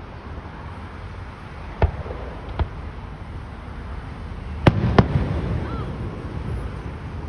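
Fireworks going off: two lighter bangs about two seconds in, then two louder booms in quick succession nearly five seconds in.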